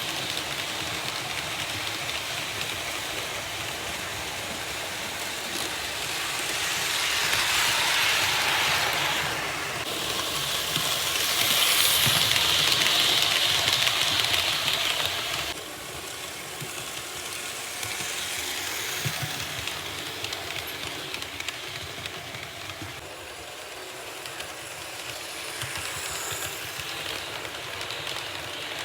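Märklin H0 model trains running on the track: a steady rolling hiss and clatter of small wheels on the metal rails. It swells twice as a train passes close, about seven and eleven seconds in, and the second swell cuts off abruptly about halfway through.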